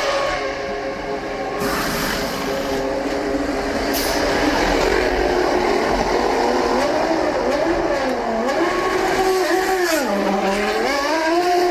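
Formula One car's V10 engine running at high revs. Its pitch wavers, drops sharply about ten seconds in, then climbs again as it revs back up.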